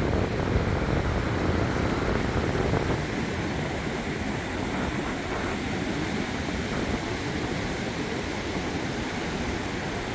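Small waves washing onto a beach in a steady rush, a little louder for the first three seconds.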